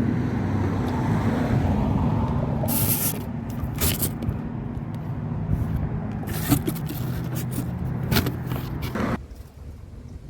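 An engine running steadily, with several short scraping noises over it; the engine sound drops away suddenly about nine seconds in.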